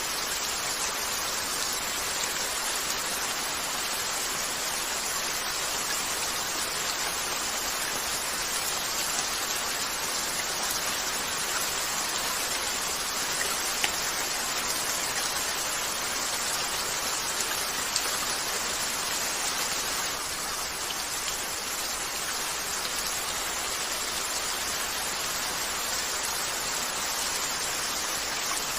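Steady rain falling on a window, an even dense hiss, with two brief sharp ticks standing out about halfway through.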